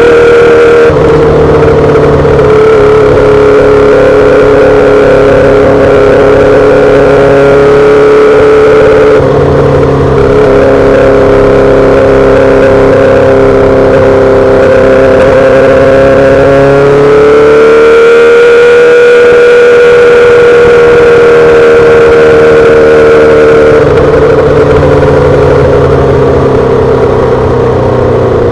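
2008 Yamaha R6's inline-four engine running through a full SC-Project exhaust, held at high, fairly steady revs. The pitch dips slightly about a second in and again around a third of the way through, rises a little past the middle, and drops again near the end.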